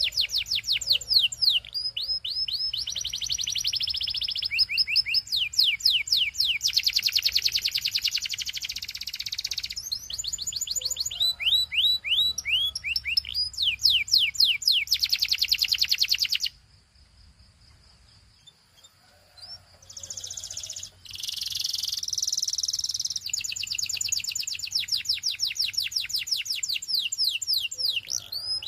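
Domestic canary singing: fast trills and rolls of rapidly repeated notes, stopping for about three seconds in the middle before the song picks up again.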